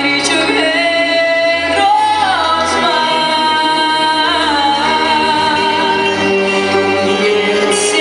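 A woman singing a song over instrumental accompaniment, gliding between long held notes with vibrato.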